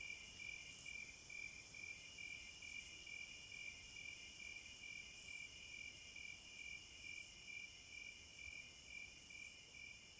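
Night insects, crickets among them, calling together: a quick chirping repeated about four or five times a second over a steady high trill, with a higher-pitched buzz that swells every two seconds or so.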